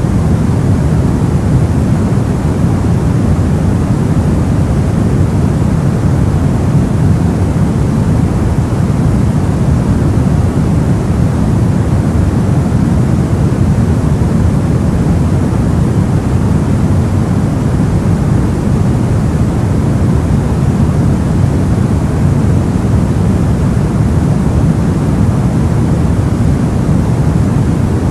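Soft white noise for sleep, a steady rushing hiss weighted toward the low end, unchanging throughout.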